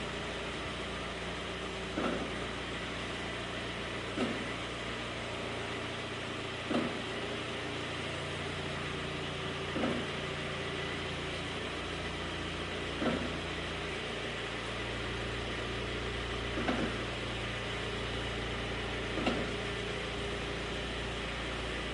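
Kia Forte Koup's brakes making a dragging noise: a short scrape that comes back every two to three seconds, over the steady hum of the car running.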